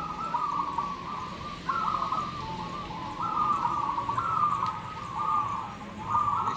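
Many zebra doves (perkutut) cooing at once, their coos overlapping in a continuous chorus.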